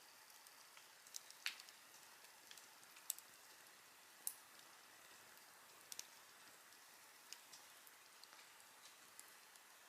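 Wood campfire crackling softly: scattered sharp pops and ticks, a few a second apart, over a faint steady hiss.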